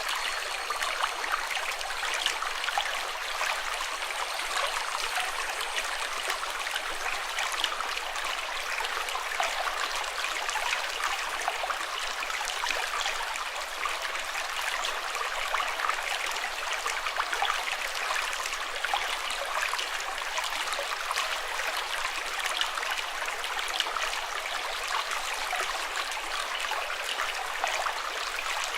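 Running water flowing steadily, like a stream, with a constant babbling splash and no change over the whole stretch.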